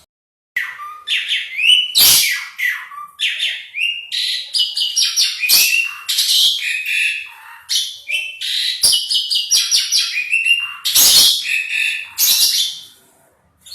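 Asian pied starling (jalak suren) in full song: a loud, nearly unbroken run of varied whistles, sliding notes and harsh rasping calls, starting about half a second in.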